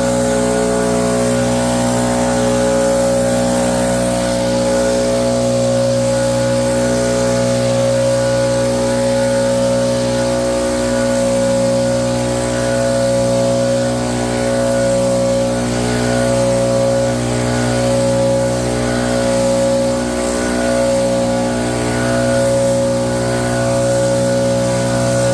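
Small engine running steadily at a constant speed, with a fixed hum and a gently pulsing level.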